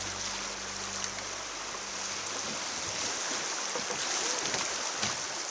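Creek water rushing steadily, a continuous hiss of moving water around the kayak. Background music fades out about two seconds in.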